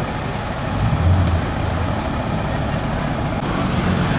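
Audi R8's V10 engine idling with a deep, steady sound, swelling briefly about a second in.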